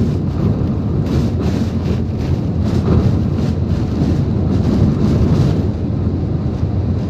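Typhoon wind blowing hard against the microphone, a loud constant rumble that surges in gusts.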